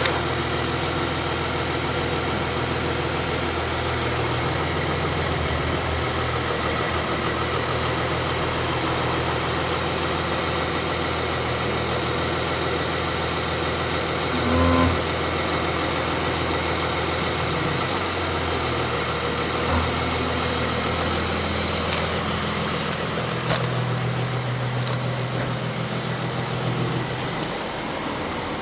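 Audi Q7 car running, heard from inside the cabin as a steady engine and road hum, with a brief knock about halfway through.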